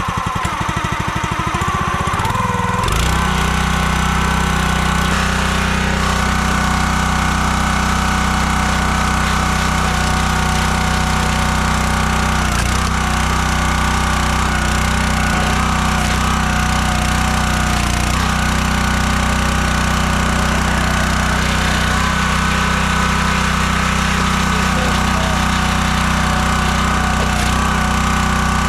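Kohler 6.5 hp single-cylinder gas engine of a 28-ton log splitter, running with a fast low chugging, then picking up to a steady higher speed about three seconds in and holding there.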